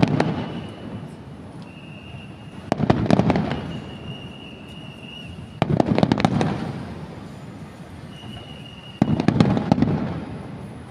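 Aerial firework shells bursting in a display: four loud booms about three seconds apart, each followed by crackling and a rumbling echo that fades. A thin, steady high whistle sounds between some of the bursts.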